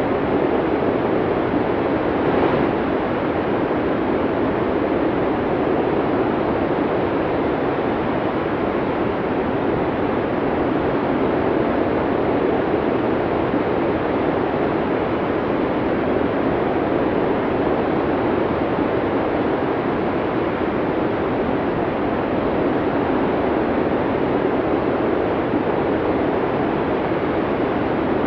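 Strong snowstorm wind rushing steadily, with a short stronger gust about two seconds in.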